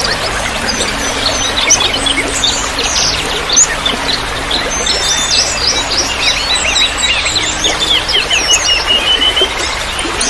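A busy mixed chorus of small songbirds chirping, trilling and whistling with quick rising and falling notes, thickest in the second half, over a steady hiss of trickling water.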